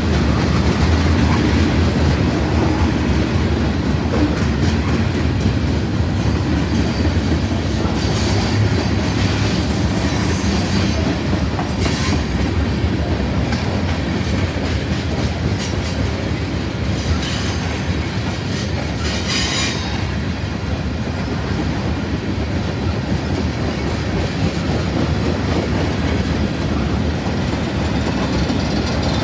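Freight cars of a manifest train rolling past at speed: steady heavy rumble and clatter of steel wheels on the rails, with a few brief high-pitched wheel squeals along the way.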